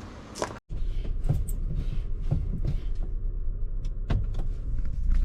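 A few clunks and clicks, the loudest about four seconds in, over a low steady hum from the running car.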